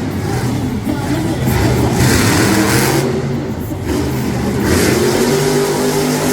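Mega Wrex monster truck's engine revving hard, the pitch rising and falling with repeated throttle bursts, with louder rushes of noise about two seconds in and again near five seconds.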